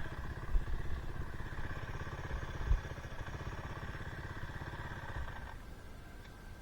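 Two-stroke dirt bike engine running with a fast, even firing pulse, with two sharp knocks at about half a second and near 2.7 s. The engine's higher sound drops away about 5.5 s in and it runs quieter.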